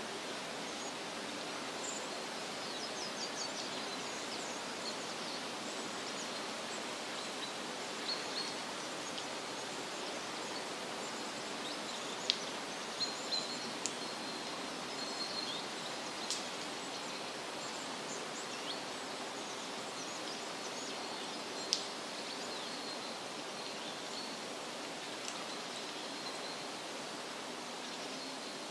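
Forest ambience: a steady, even rush of natural background noise with small birds chirping now and then above it. A few sharper, louder chirps stand out in the middle.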